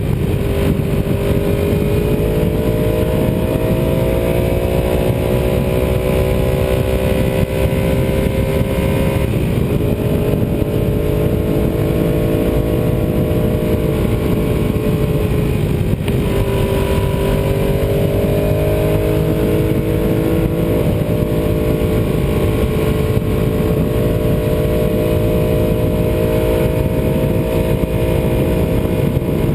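Ducati 748R's 90-degree V-twin engine running under way, its pitch climbing slowly, dipping and climbing again twice before holding fairly steady, over a constant rush of wind.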